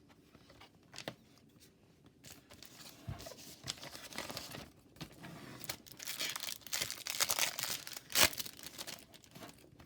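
A trading-card pack wrapper being torn open and crinkled by hand, in irregular rustles that get busier in the second half, with one sharp crackle just after eight seconds in.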